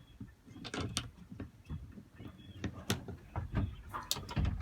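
Irregular clicks and knocks from someone moving about inside a small yacht's cabin, with a few sharper knocks.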